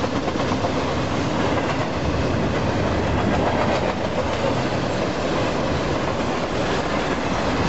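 Union Pacific intermodal freight train's double-stack container cars and trailer flats rolling past at speed: a steady rumble with wheel clatter.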